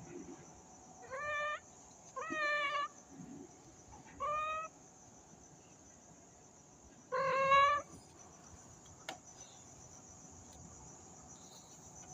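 A cat meows four times in short, high-pitched calls, the last loudest. A steady high insect chirring, like crickets, runs behind.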